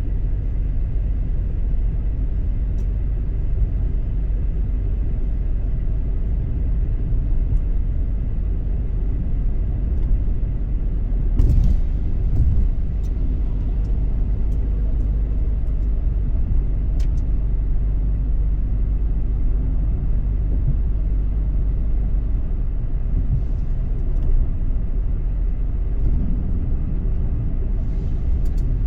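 Steady low rumble of a car driving along a road, with a brief knock about eleven and a half seconds in.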